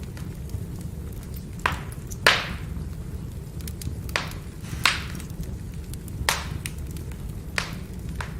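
Burning firewood crackling: sharp pops and snaps, about seven in all and the loudest a little over two seconds in, over a steady low rumble.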